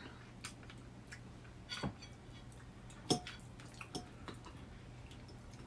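A handful of short, soft clicks and taps at the dinner table, about a second apart, a couple of them with a brief clink, over a faint low hum. These are sounds of eating with utensils and dishes.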